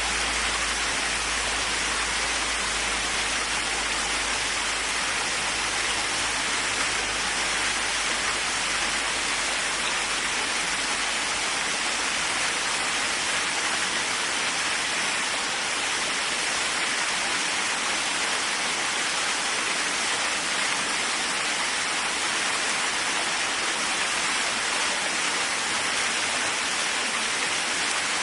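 Waterfall running steadily: an even, unbroken rush of falling water. A low rumble underneath fades away over the first half.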